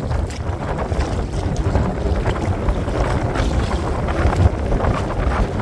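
Strong wind buffeting the microphone in a low, steady rumble, over water splashing and lapping around a kayak being paddled through choppy water.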